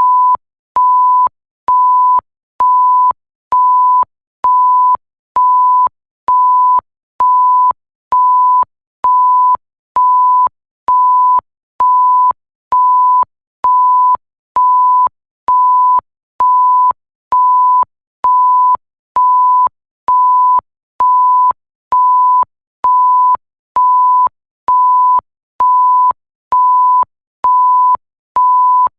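An electronic bleep: a single pure steady tone, switched on and off about once a second, each beep a little over half a second long with short gaps between, and a faint click as each one starts and stops.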